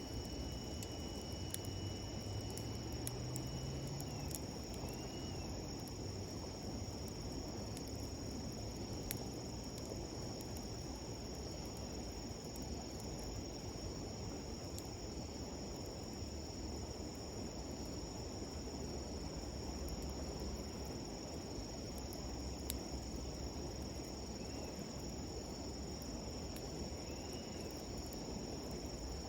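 Insects trilling in a steady, continuous high chorus over the low rush of a river. A wood campfire crackles now and then with a few sharp pops.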